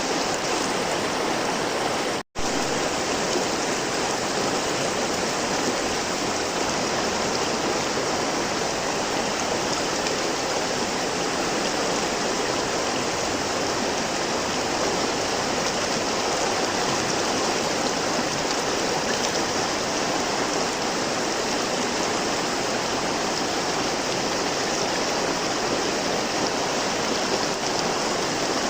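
Steady rushing of a flowing river, broken by a split-second gap of silence about two seconds in.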